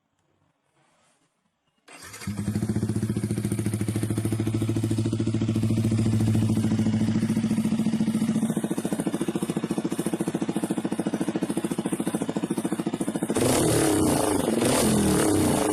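Yamaha R15 V3's single-cylinder four-stroke engine starting about two seconds in and idling steadily through its exhaust, then revved a little over two seconds from the end.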